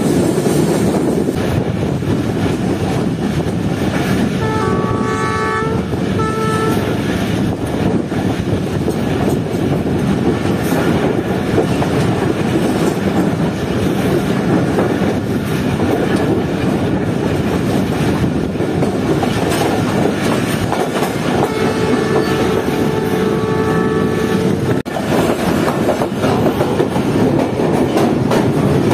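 Passenger train running along the track with steady wheel clatter and rumble. A train horn sounds about five seconds in, breaks briefly and sounds again, then blows once more for about three seconds a little past twenty seconds in.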